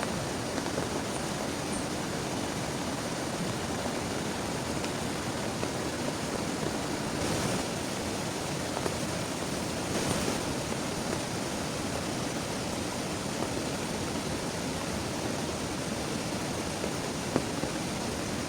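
Heavy rain falling steadily, an even hiss with scattered sharper drop ticks, twice briefly heavier near the middle.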